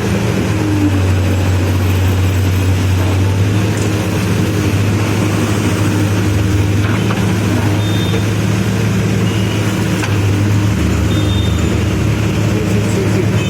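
Diesel engine of a CASE backhoe loader running steadily, with a constant low hum.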